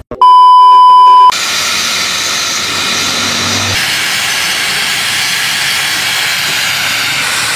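A loud electronic beep, about a second long, that cuts off sharply into a steady, loud hiss.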